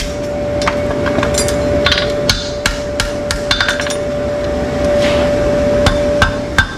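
A hammer striking in quick, irregular taps over a steady hum, with a pause in the taps a little past halfway.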